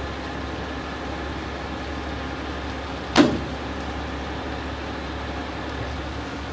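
Crane engine running steadily under load while it hoists a heavy truck body on its cables, with one sharp knock about three seconds in.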